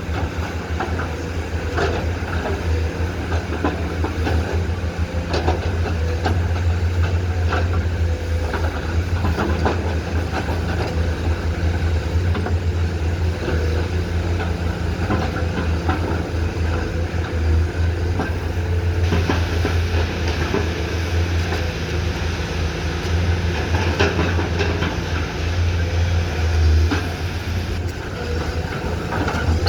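Komatsu PC210 hydraulic excavator's diesel engine running steadily under load, with scattered knocks and clatter from the bucket working soil and stones.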